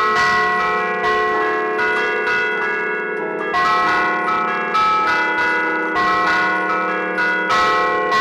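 Church bells played from a keyboard 'a martellino', the Bergamasque allegrezze style: hammers strike the hanging bells in a quick tune, and each note rings on over the next. There is a brief lull about three seconds in.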